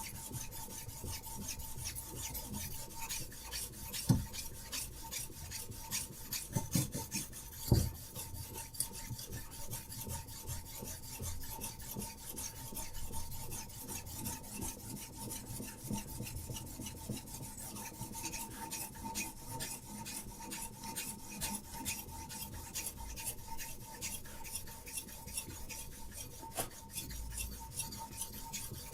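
A sharpening stone on a Hapstone RS guided knife sharpener is stroked back and forth along a knife's edge in a quick, even run of rasping strokes. There are a few louder knocks about four and eight seconds in.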